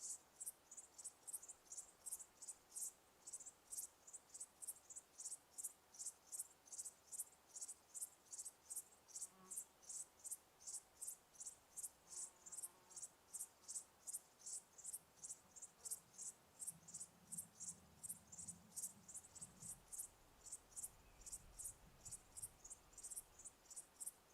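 Insect chirping in a steady, even rhythm of short high-pitched chirps, about three a second.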